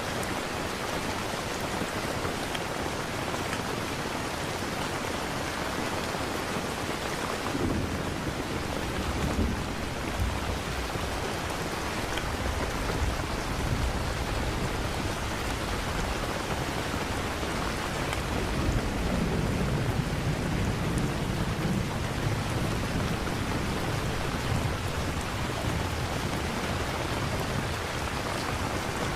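Steady heavy rain with thunder rolling in twice, once about a quarter of the way in and again for several seconds past the middle.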